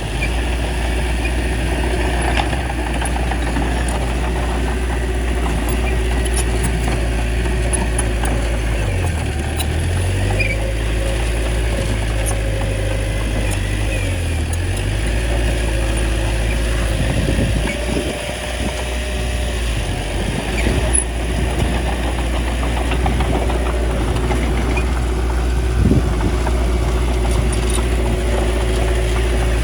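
Small bulldozer's diesel engine running steadily, its pitch sagging and recovering twice near the middle, with a few knocks in the second half.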